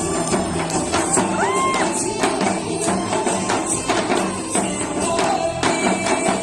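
Trot music with janggu hourglass drums beaten in a steady, fast rhythm along with it.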